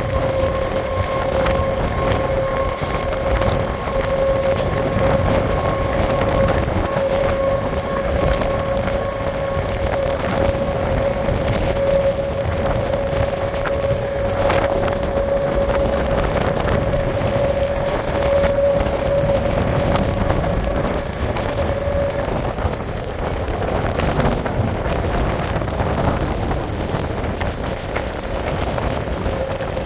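Train in motion: a steady rumble of wheels on the rails with a constant whine that fades out about two-thirds of the way through and comes back near the end, with wind on the microphone.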